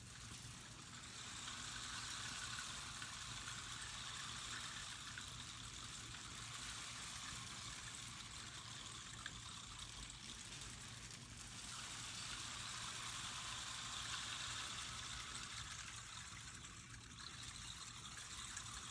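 Loose grains sliding and pouring with a faint, steady hiss that swells and fades in long waves, dipping briefly twice.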